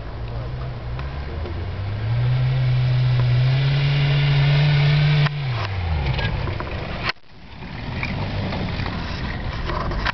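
1984 VW Rabbit's four-cylinder diesel engine running hard: the revs rise about two seconds in and hold steady. A little after five seconds the engine lets off abruptly and the pitch falls away. After a sudden break near seven seconds, the engine is heard again at lower revs.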